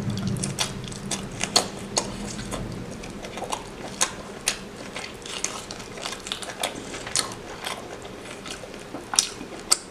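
Irregular sharp clicks and taps, unevenly spaced at roughly one to three a second, over a faint low hum.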